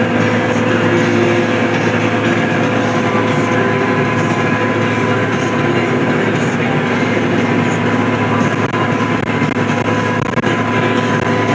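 Tractor engine running steadily under load while pulling a hay baler, a constant drone with machinery rattle.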